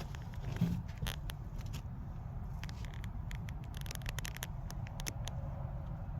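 Scattered light clicks and rustling over a steady low rumble, with a cluster of clicks past the middle.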